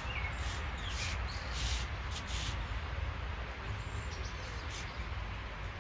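Steady rain falling over a garden, a continuous hiss with a low rumble beneath it. Two short bird chirps sound in the first second or so.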